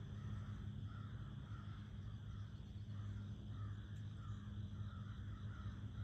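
A bird calling over and over, about ten short calls in a loose run of roughly two a second with a brief pause midway, over a steady low hum.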